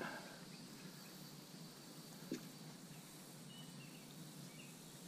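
Quiet outdoor background hiss with a few brief, faint high chirps from small birds in the second half, and a single soft click a little after two seconds.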